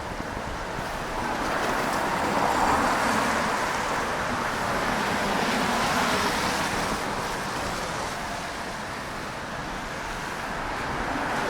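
Road traffic passing on a wet street, tyres hissing on the wet road; the noise swells as vehicles pass about two seconds in and again around six seconds, eases off, then rises again near the end.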